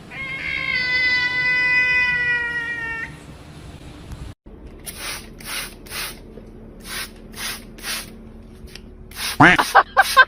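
A cat's long drawn-out meow, about three seconds, falling slightly in pitch. After a cut come a run of short hissy strokes and, near the end, a few loud brief gliding sounds.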